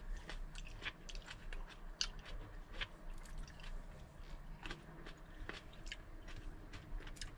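A person chewing and biting grapes close to the microphone: irregular small crunchy clicks, a few a second.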